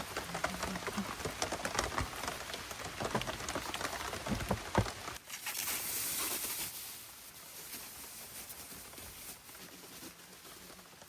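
Rain pattering, with many close drops ticking and knocking. About five seconds in it changes abruptly to a softer, steady hiss of rain.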